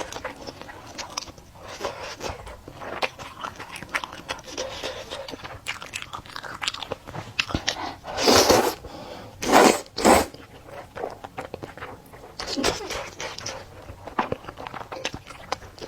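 Close-miked mouth sounds of a person eating chewy stir-fried rice noodles: irregular wet chewing and biting, with three louder noisy bursts about halfway through.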